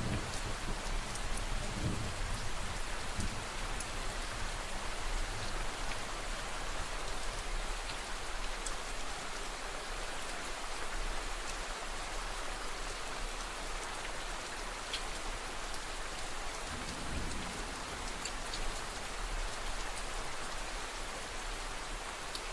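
Steady rain falling, an even hiss with scattered fine drop ticks. A low rumble of distant thunder dies away in the first couple of seconds.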